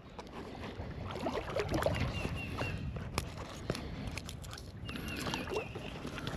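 Water sloshing and splashing as a barely hooked fish is played close in, with scattered small ticks and, twice, a short run of high chirps.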